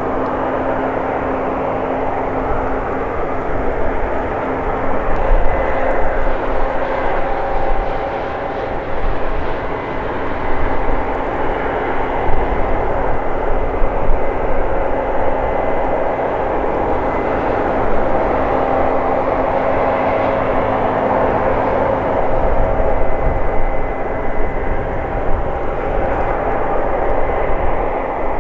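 CASE combine harvester running steadily while cutting wheat, a continuous machine drone with a constant low hum.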